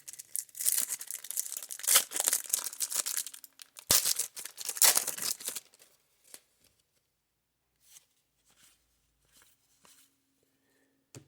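A trading card pack wrapper being torn open and crinkled, in rough bursts of ripping for about five seconds. After that come only a few faint ticks from handling the cards.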